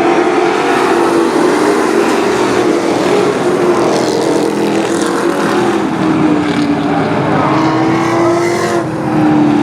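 Racing trucks' engines running on the track, several engine notes blending into a steady drone that drifts slightly up and down in pitch.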